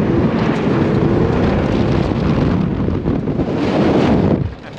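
Car engine revving hard under acceleration, its pitch rising, with heavy wind buffeting the microphone. The sound cuts off abruptly near the end.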